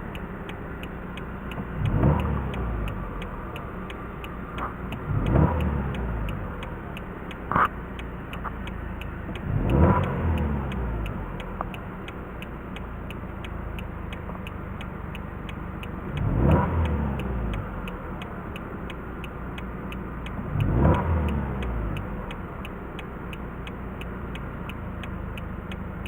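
Car engine idling and revved five times with the accelerator pedal, each rev rising quickly and then falling back to idle. A single short click sounds near the middle.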